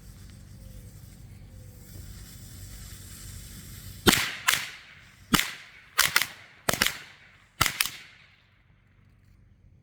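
A pack of Shelton Red Hot firecrackers going off. There is a quick, uneven string of sharp bangs, some in close pairs, starting about four seconds in and ending about four seconds later.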